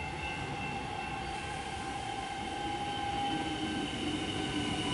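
Electric suburban train approaching the station platform, growing steadily louder, with a few steady high tones over the running noise.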